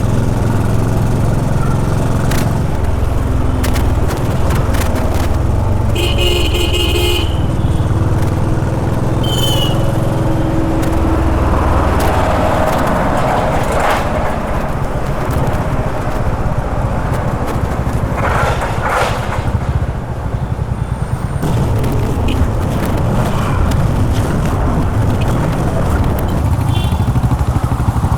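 Honda H'ness CB350's air-cooled single-cylinder engine running steadily while riding in city traffic, with a vehicle horn sounding for about a second near the first quarter and briefly again shortly after.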